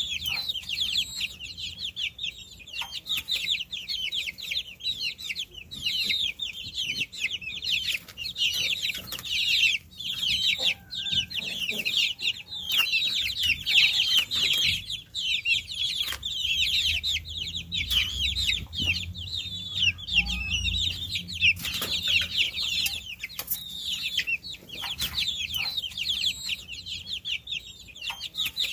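A brood of baby chicks peeping continuously, many short high chirps overlapping one another. A low rumble sits under them for a few seconds in the middle.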